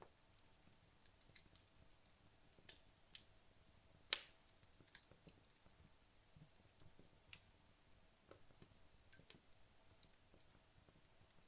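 Wood logs burning in a fireplace, crackling with sparse, irregular sharp pops. The loudest snap comes about four seconds in.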